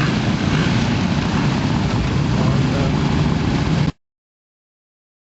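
Classic motorcycle engines running with a steady low throb, then the sound cuts off abruptly about four seconds in.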